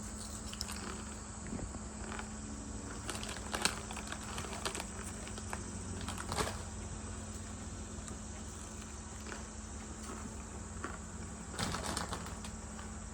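Crunchy Sriracha banana chips being chewed: scattered short, crisp crunches over a steady low electrical hum.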